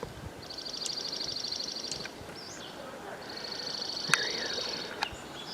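A songbird singing two rapid trills of high, evenly repeated notes, each about a second and a half long, with short chirps between them. A sharp click cuts in about four seconds in.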